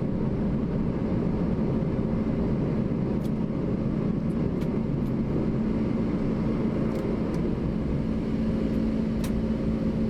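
Steady cockpit noise of a McDonnell Douglas MD-11 freighter climbing after takeoff: airflow and engine noise with a steady low hum, and a few faint clicks.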